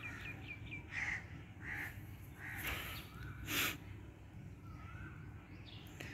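Birds calling in the background: a quick run of short chirps at the start, then several short calls, the loudest a harsh call about three and a half seconds in.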